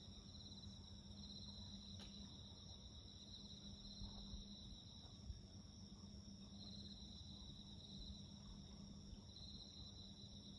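Faint chorus of crickets and other night insects: a steady high trill with pulsing bouts of chirping, over a faint steady low hum. One faint click about two seconds in.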